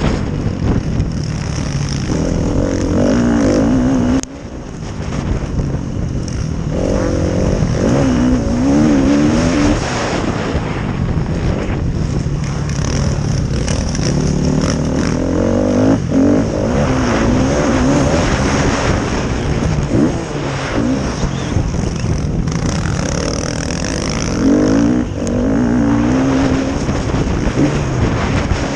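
Several motocross bikes racing, their engines revving up and falling back over and over as they work around the track.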